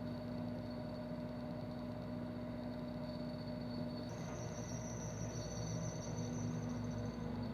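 Steady hum with a faint high whine, and a second, higher whine that comes in about four seconds in and stops near the end.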